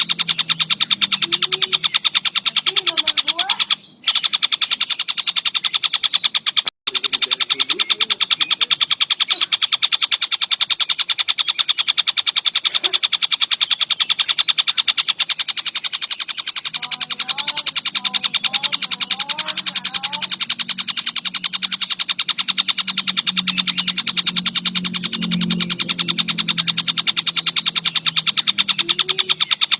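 Tengkek buto kingfisher calling in a continuous, very rapid rattling chatter, high and unbroken apart from two brief breaks about four and seven seconds in. Fainter, lower gliding chirps run underneath, busiest about two-thirds of the way through.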